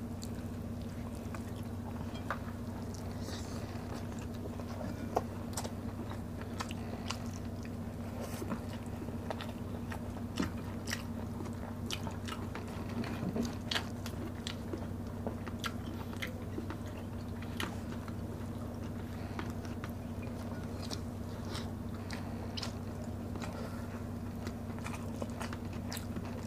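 Close-up eating sounds: chewing and small mouth clicks as rice and fried pompano are eaten by hand, scattered short clicks over a steady low hum.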